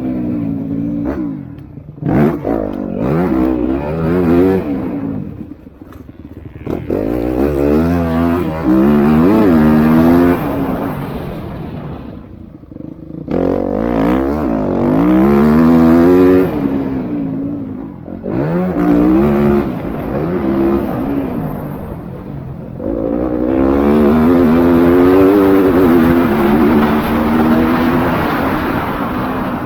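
MX2 motocross bikes racing past, their engines revving up and dropping back as they shift gear. The sound comes in several waves, each swelling and fading as bikes go by.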